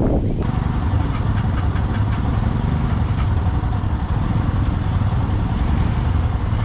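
A vehicle on the move: a steady engine drone with road and wind noise, a hiss that comes in suddenly about half a second in.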